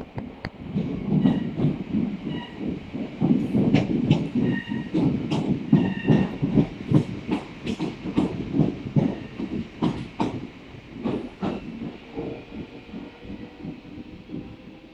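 Class 466 Networker electric multiple unit passing, its wheels clattering over rail joints and points with a few brief high squeals. The sound dies away after about eleven seconds.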